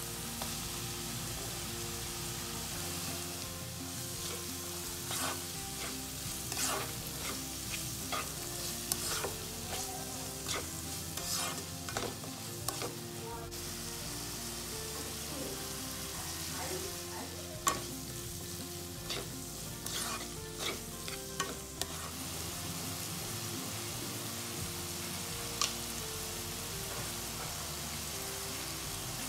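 Chopped onion, capsicum and tomato sizzling in oil in a wok, with a spatula stirring and scraping against the pan in two stretches of sharp clicks and scrapes.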